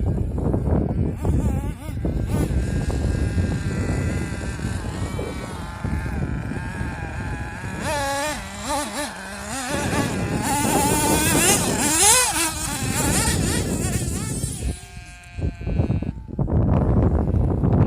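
Small engine of an RC buggy revving up and down as it is driven, its pitch rising and falling again and again; the sound drops away briefly about fifteen seconds in and then comes back.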